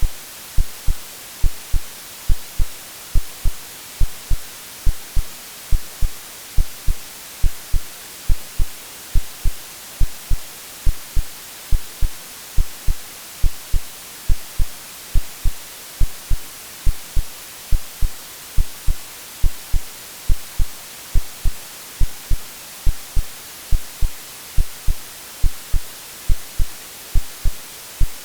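AI-generated heartbeat sound, a steady run of low thumps about two a second, laid over continuous white-noise hiss as a womb-like soothing sound for babies.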